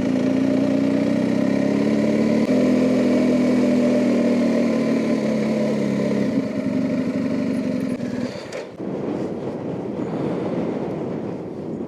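BMW R1250GS boxer-twin motorcycle engine running steadily under way, its pitch easing slowly down; about eight and a half seconds in the engine sound stops, leaving wind noise.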